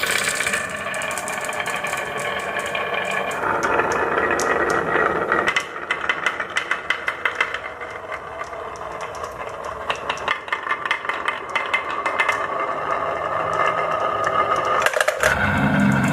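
Marbles rolling and clattering down a wooden and plastic marble run, with dense rapid clicks and knocks over a steady rolling rumble.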